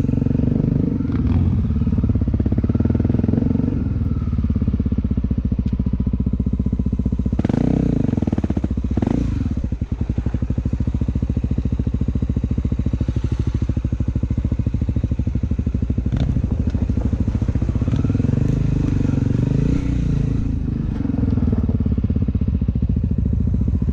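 Honda XR250 Tornado's single-cylinder four-stroke engine running while riding a dirt trail, the revs rising and falling. Near the middle it settles to a lower, steadier note for several seconds, then revs up again.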